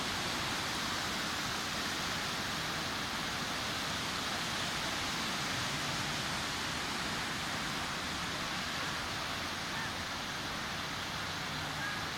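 Sea surf washing onto a beach: a steady, continuous rush of breaking waves.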